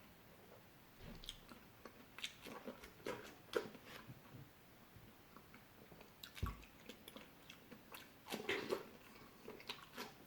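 A person biting and chewing fresh fruit, with irregular crisp clicks and short wet crunches and a louder run of bites near the end.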